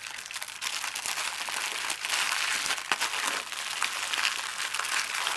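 Small plastic bags of diamond painting drills being handled, a steady crinkling with many small clicks.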